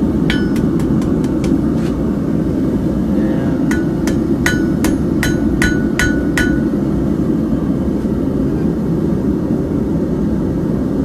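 Hammer blows on hot steel on an anvil while forging a carving hook tool: a quick run of about seven ringing strikes in the first two seconds, then about eight more from about four to six and a half seconds in. A steady low rumble runs underneath.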